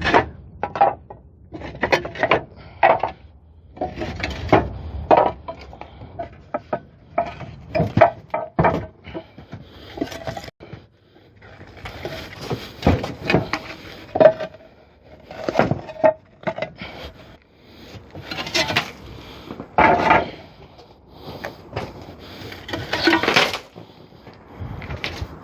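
Terracotta roof tiles clinking and knocking against each other as they are lifted out and set down by hand, in irregular sharp clacks, some with a short ceramic ring.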